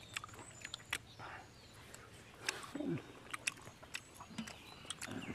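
Close-up chewing of fried beetle larvae, with many small sharp mouth clicks at an irregular pace. A brief hum of the voice comes about three seconds in.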